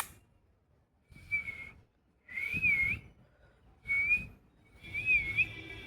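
Four short whistled notes, each about half a second long, with the second and last wavering up and down in pitch.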